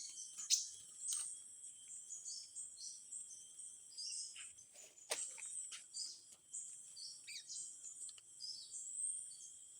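Small birds giving many short, high chirps over a steady high-pitched insect drone, with a few sharp clicks.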